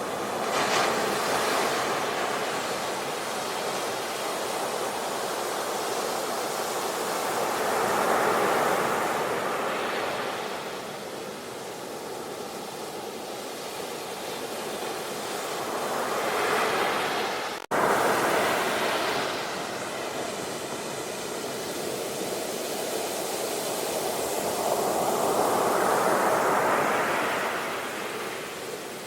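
Ocean waves breaking and washing up the shore, the surf swelling and ebbing about every eight seconds. There is a momentary dropout about two-thirds of the way through.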